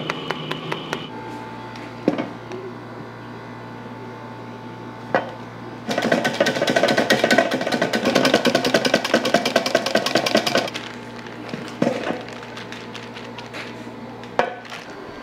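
Pastry-kitchen work sounds under soft background music with a low steady hum. There are a few single knocks, and for about four seconds in the middle a rapid, even clatter with a ringing tone.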